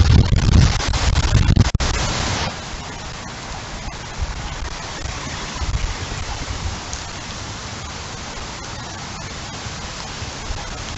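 Heavy rain falling steadily with an even hiss. Strong wind gusts buffet the microphone with a low rumble for the first two seconds or so, then die down.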